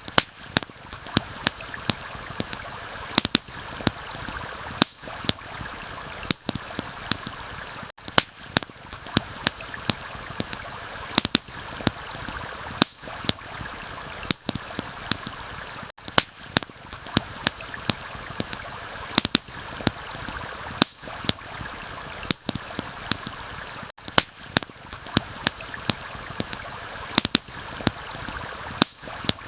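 Steady rushing of a flowing stream, with a campfire's sharp crackles and pops scattered irregularly through it. It is a looped ambience track, and the sound dips briefly about every eight seconds at the loop seams.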